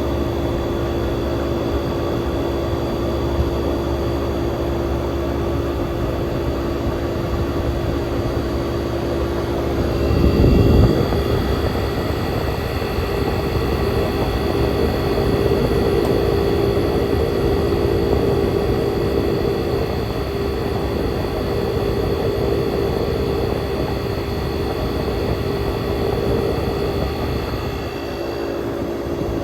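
1967 Chrysler Airtemp Imperial air conditioner running with a steady hum. About ten seconds in it briefly gets louder and the hum shifts slightly higher in pitch. It shifts back near the end.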